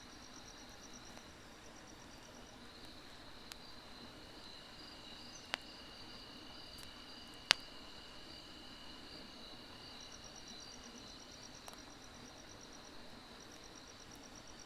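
Crickets and other field insects trilling steadily, with a faster pulsed chirping that stops after a couple of seconds and comes back late on. Over them, firewood burning in a fire pit gives a few sharp single crackles, the loudest about halfway through.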